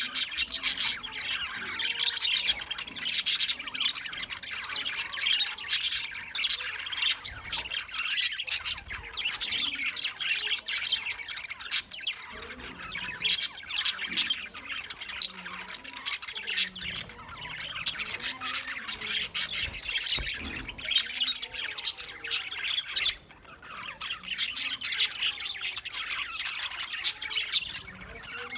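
Many caged parrots chattering and squawking over one another without pause, with a brief lull a little before the end.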